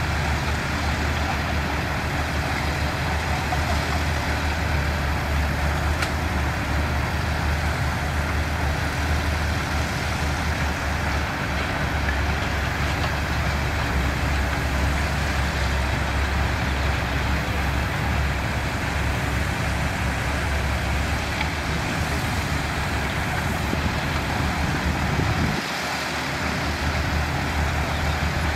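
Diesel engines of heavy construction machinery, bulldozers and dump trucks, running steadily with a deep low hum. The low end drops out briefly about 25 seconds in.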